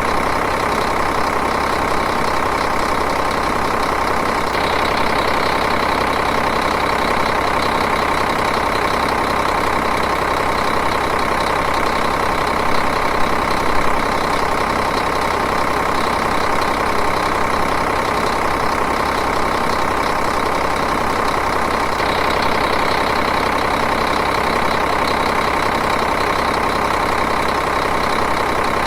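Diesel engine idling, running steadily and evenly.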